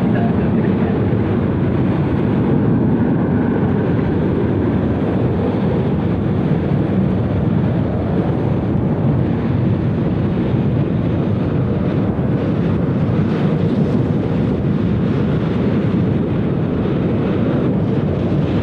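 Steady low rumble of jet airliner engines, holding level without rising or falling.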